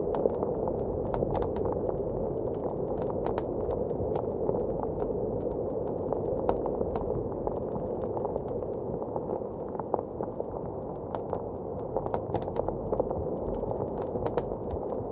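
Wood fire crackling in a fireplace, with irregular sharp pops, some in small clusters, over a steady low rush of blizzard wind.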